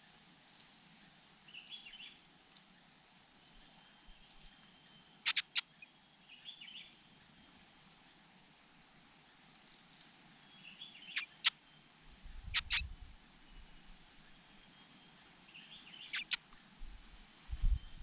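Faint small-bird calls: soft high chirps every few seconds, with a few sharp, very short chip notes, two in quick succession about five seconds in and again near the end. A brief low rumble comes about twelve seconds in.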